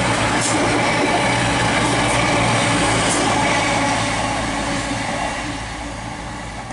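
CrossCountry Class 220 Voyager diesel multiple unit passing through the station at speed: a loud, steady rush of wheels on rail over the hum of its underfloor diesel engines. About four seconds in it starts to fade as the train draws away.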